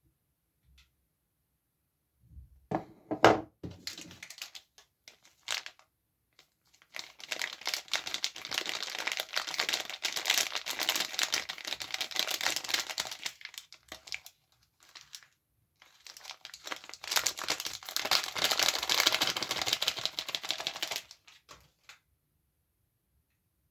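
Soap wrapper crinkling as a bar of soap is unwrapped by hand: a few sharp knocks and crackles about three seconds in, then two long spells of dense crinkling, the second starting a little after halfway.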